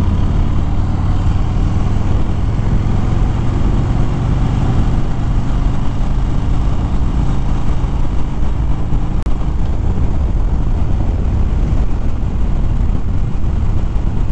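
Harley-Davidson Fat Bob V-twin engine running at a steady cruise while riding, under a steady rush of wind noise.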